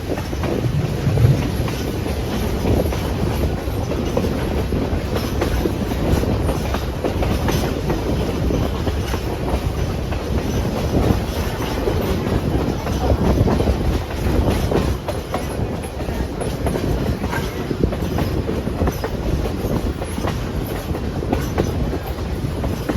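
Excursion train running along the track: a steady low rumble with the clickety-clack of wheels over the rail joints.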